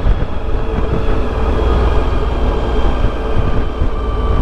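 Motorcycle engine running at a steady cruising speed while riding, with a steady drone and a low rumble of wind and road noise underneath.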